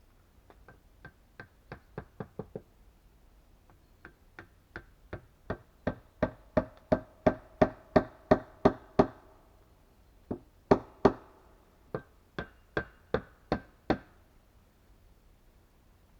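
Wooden nails being driven into the log subfloor with repeated hard blows, in three runs of about three strikes a second. The strikes grow louder through the middle run.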